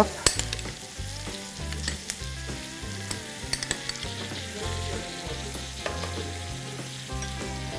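Chopped onions, garlic and capsicum sizzling in hot oil in a pan as ketchup goes in, stirred with a spatula that clicks against the pan now and then.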